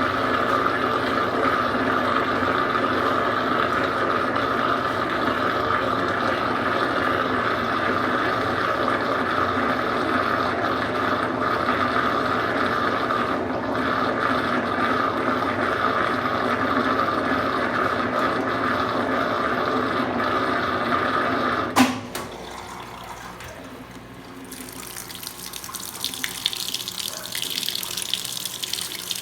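Consul Supercargo 8 kg (CWL08C) washing machine running with a steady hum, which stops with a click about three-quarters of the way in. A couple of seconds later, water starts rushing into the tub as the machine fills.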